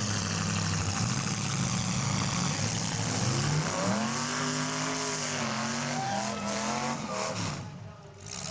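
Demolition derby cars' engines running, with one engine revving up and down about halfway through. The sound drops away briefly near the end.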